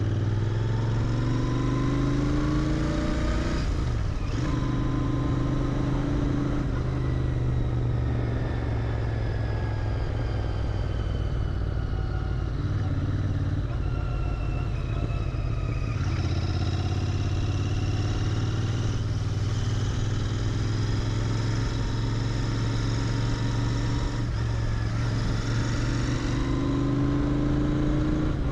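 Royal Enfield Interceptor 650's 648 cc parallel-twin engine, through its stock muffler, pulling under way. Its pitch rises in several sweeps, each broken by a gear change, at about four and sixteen seconds in.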